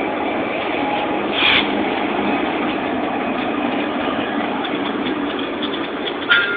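Diesel freight locomotives passing close by at slow speed, their engines running with a steady heavy rumble, followed by the first double-stack container cars rolling past. Two short sharper sounds stand out, about a second and a half in and again near the end.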